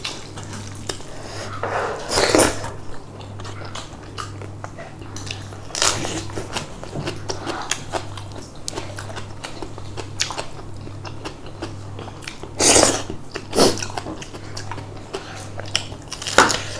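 Close-up eating sounds: chewing and biting on rice and chicken, with louder wet smacks or crunches about two seconds in, near six seconds, twice around thirteen seconds and just before the end, over a steady low hum.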